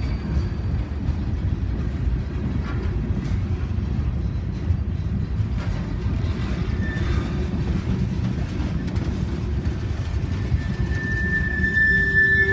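Freight train rolling past close by, a steady rumble of wheels on rail. Near the end a steady high-pitched squeal joins in.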